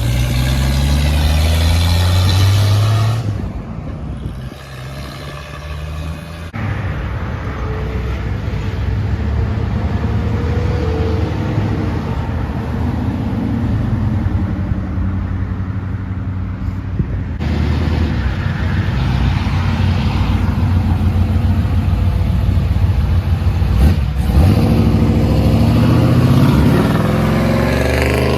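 Car engines accelerating as cars pull out one after another. A hard rising rev comes in the first three seconds, then a steady engine rumble, and another rev climbs near the end.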